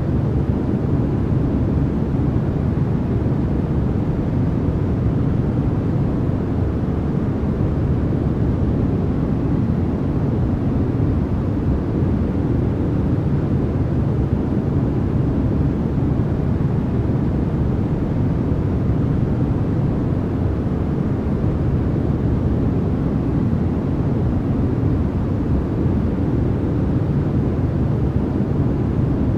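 Continuous noise track sold as white noise, steady and unchanging, with most of its weight low, so it is heard as a deep, rumbling hiss rather than a bright one.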